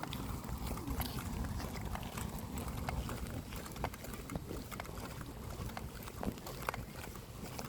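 Footsteps of a person walking on a path, a run of irregular sharp steps and clicks over a steady low rumble on the microphone.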